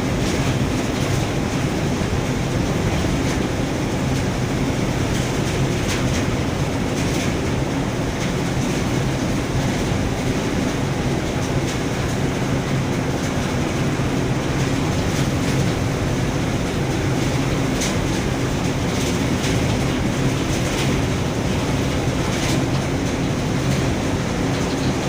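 Large ship's engine and machinery running with a steady low drone, a constant hum over a broad rumble and some faint ticks.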